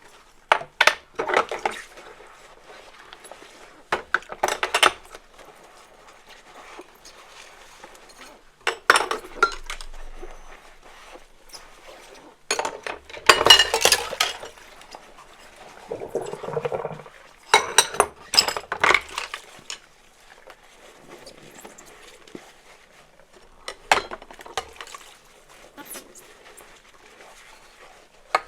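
Dishes being washed by hand: dishes and cutlery clinking and clattering in bursts every few seconds, with water sloshing between them.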